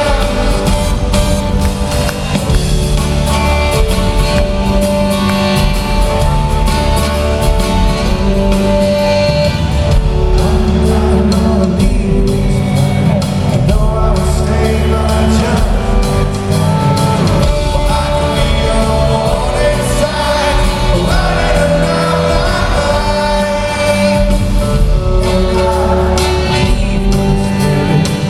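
Live rock band playing a song with a male lead vocal, heard with the echo of a large arena.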